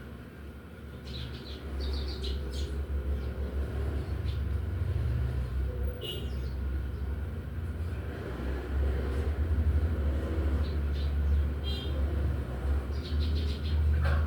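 Sparrow chirping in short, scattered high calls over a steady low rumble.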